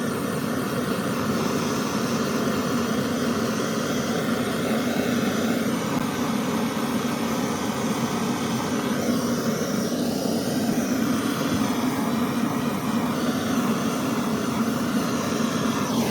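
Blowtorch running steadily, its flame playing on heat-shrink insulation over soldered wire connections to shrink it.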